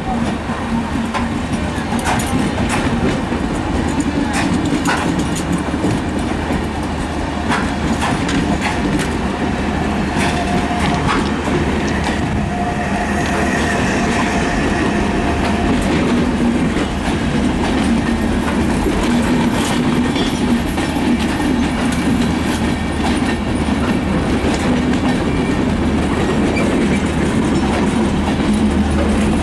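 Passenger train passing slowly at close range, its wheels clicking over the rail joints over a steady rumble of the carriages.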